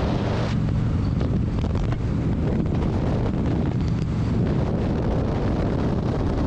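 Wind buffeting a motorcycle-mounted camera's microphone at riding speed, with a Harley-Davidson's engine running steadily underneath.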